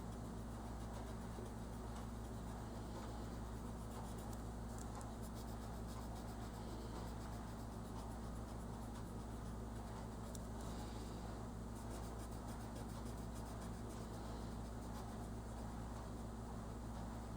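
Quiet scratching of colouring strokes on a paper colouring page, over a steady low hum.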